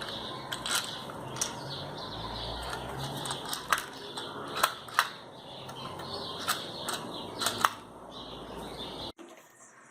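A series of irregular sharp knocks and clicks, like metal or wooden parts being handled and set down, over a steady background with faint bird chirps. The sound cuts off abruptly about nine seconds in.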